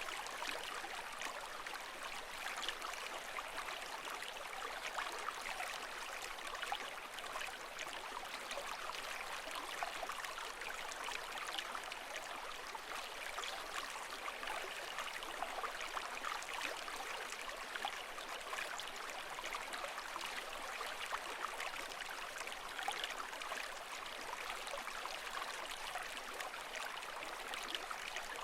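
Water trickling and bubbling steadily, a dense patter of small splashes.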